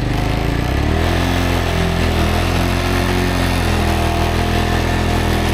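Road motorcycle engine running at low revs, rising a little in pitch in the first second, then holding steady.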